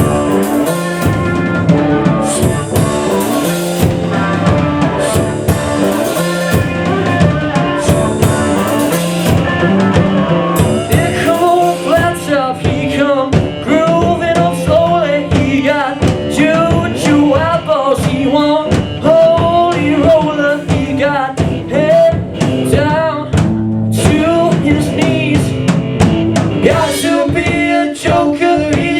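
Rock band playing live: drum kit and guitars keeping a steady beat, with a lead singer coming in about ten seconds in.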